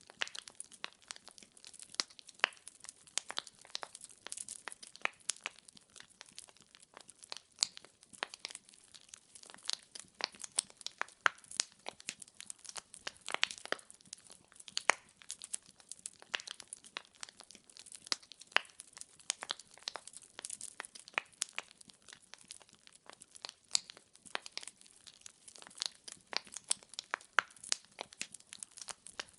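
Burning firewood in a fireplace crackling and popping, with many sharp irregular snaps over a soft hiss.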